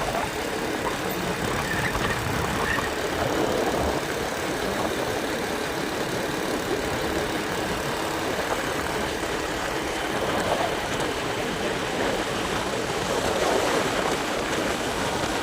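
Steady vehicle noise: an engine running with a constant rumble and hiss that holds an even level throughout.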